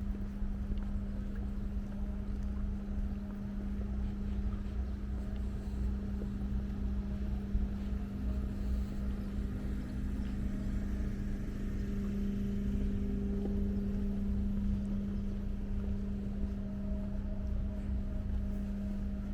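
An engine running steadily with a constant low hum and rumble.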